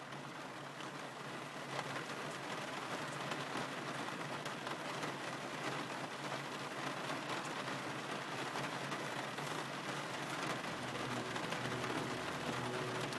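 Steady rain, an even hiss of falling drops, that has just faded in. About eleven seconds in, faint low held tones join underneath.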